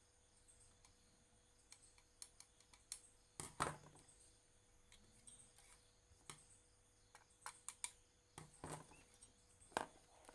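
Scattered light clicks and taps from small tools and parts being handled during amplifier repair work. A few louder knocks come a third of the way in and again near the end.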